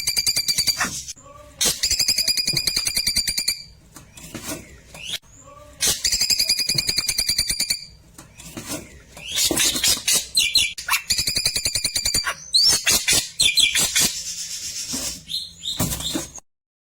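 Klewer bird singing: fast rattling trills, each about two seconds long, repeated with short breaks. Quick rising whistled notes come in about the middle.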